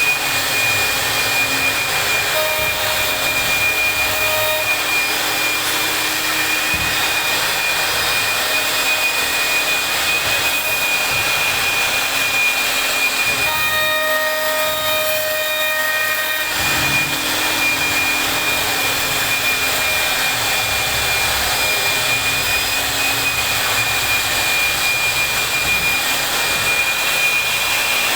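CNC router spindle running steadily with a constant high-pitched whine over a machine hiss. About halfway through, a second, lower pitched tone joins for about three seconds.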